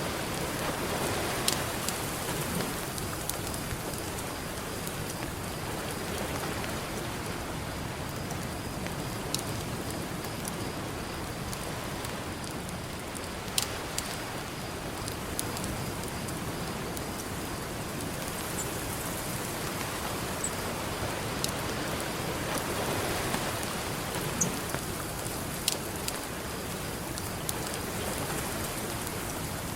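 Campfire crackling, with a few sharp pops, over steady ocean surf that swells twice as waves wash in.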